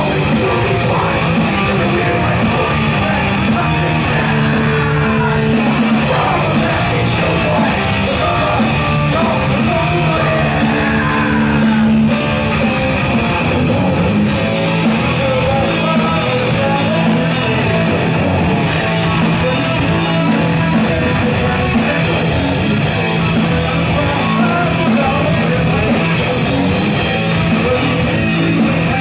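Heavy metal band playing live and loud: distorted electric guitars, bass and drums, with shouted vocals.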